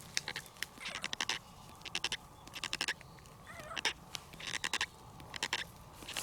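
Footsteps crunching in short groups about once a second as someone walks, with a faint short meow from a young calico cat about three and a half seconds in.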